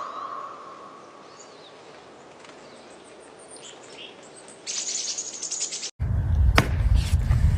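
Faint outdoor ambience with a few high bird chirps and a rapid high trill. About six seconds in, it cuts abruptly to loud low rumbling with several sharp knocks.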